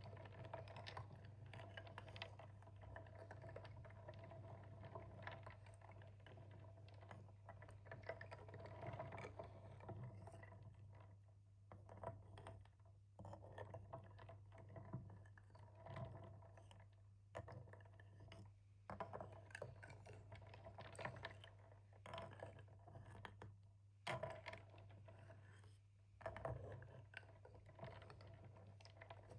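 Soft, irregular tapping and scratching on a small wooden plate, many quick light clicks with brief pauses, over a steady low hum.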